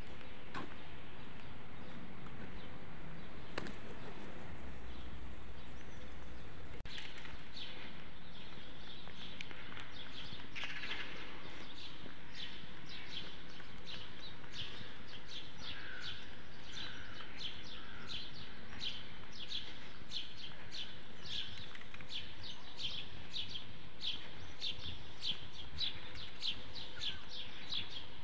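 Street ambience with a steady low hum. From about a quarter of the way in, small birds chirp in quick short notes that come thicker and louder toward the end.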